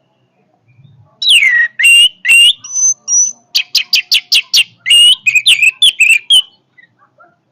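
Orange-headed thrush (anis merah) singing one loud, varied phrase about a second in, lasting some five seconds: downward-slurred whistles, a high thin note, then a quick run of short notes and more slurred whistles.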